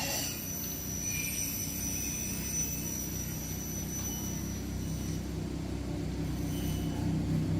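An engine running steadily with a low hum, growing louder near the end, with a thin high whine over it for the first few seconds.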